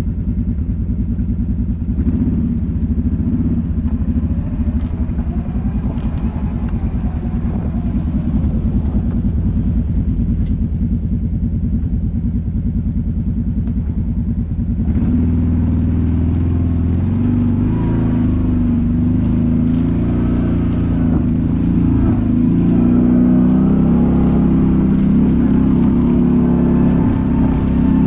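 Engine of an off-road quad or side-by-side running steadily while riding, with a little clatter from the machine. About halfway through the engine note changes and gets a little louder.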